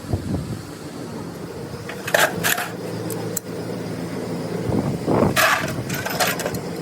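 Workshop machine running with a steady hum, with short harsh metallic scraping noises about two seconds in and again about five seconds in.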